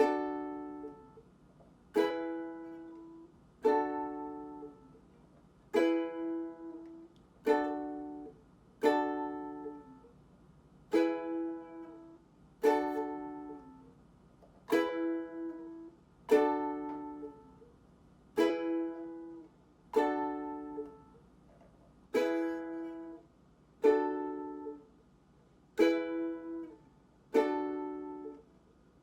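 Ukulele strumming single chords about every two seconds, alternating between E and D for chord-change practice. Each chord rings out and fades before the next.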